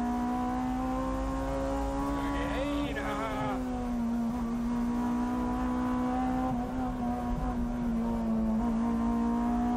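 Amuse-tuned Honda S2000 engine heard from inside the cabin, running hard at high revs; its pitch climbs slowly and dips a few times at gear changes. A brief wavering squeal comes about three seconds in.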